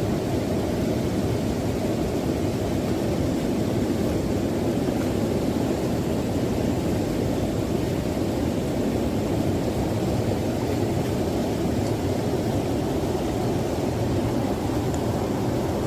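Absima Sherpa RC pickup truck's electric motor and drivetrain running steadily as it drives off-road, a constant low whirring without changes in pace.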